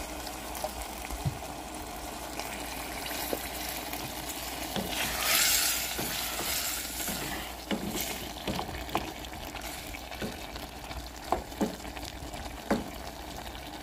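Diced vegetables sizzling in a stainless steel pot while a wooden spatula stirs them, with short knocks of the spatula against the pot. A louder hiss swells about five seconds in and lasts a couple of seconds.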